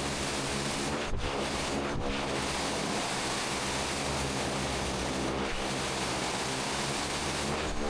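Cessna Caravan's Pratt & Whitney PT6A turboprop running steadily with the propeller in reverse thrust, pivoting the floatplane on the water: a constant loud hiss over a low hum.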